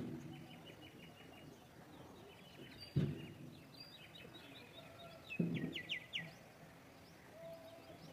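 Small birds chirping in quick runs of short high notes, several overlapping, with a louder run of chirps about five to six seconds in. A sharp knock about three seconds in is the loudest sound, and short low thuds come at the start and about five and a half seconds in.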